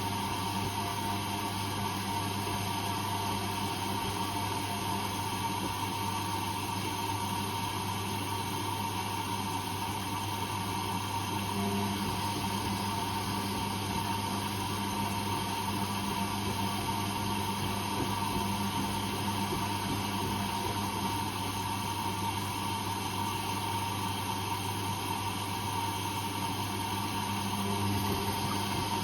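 Whirlpool Indiana 1400 front-loading washing machine running mid-program, a steady motor hum with no breaks.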